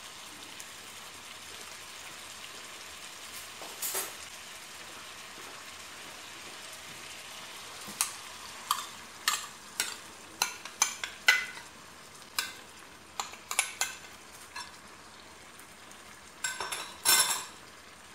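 Chicken frying in ghee with a steady sizzle, while yogurt is scraped out of a glass bowl into the pan, giving a run of sharp clicks and knocks in the second half and a louder cluster near the end.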